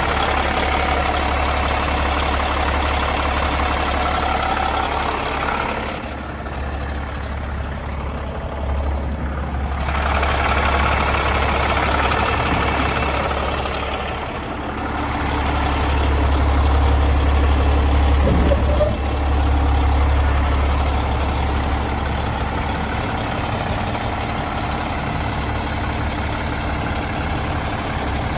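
Cummins X15 inline-six diesel in a Peterbilt 389 idling steadily with a deep, even hum. It grows a little louder for a few seconds past the middle.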